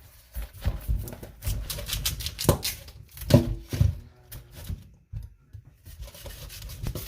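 Knife cutting through a raw yam: irregular knocks and scraping cuts, the loudest a few strokes in the middle.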